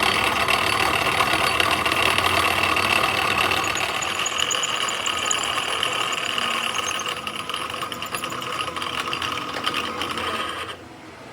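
Workshop machinery running with a steady whine and a dense rattle, cutting off abruptly near the end.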